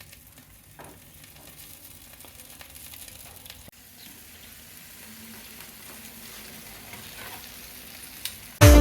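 Food frying in hot oil: a faint, steady sizzle with scattered small crackles. Loud music with a beat cuts in suddenly near the end.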